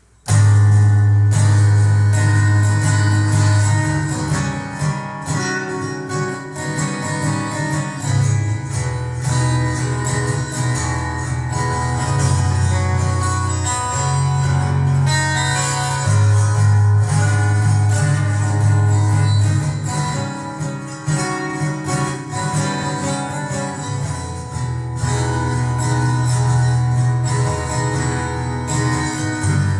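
Acoustic guitar strummed, starting abruptly just after the start and moving through a chord progression.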